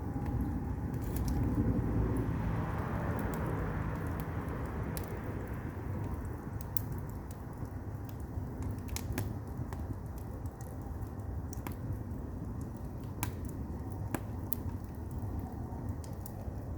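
Firewood burning in an agungi, a traditional Korean wood-fired furnace: a steady low rumble of flame with scattered sharp pops and crackles from the logs, swelling briefly about two seconds in.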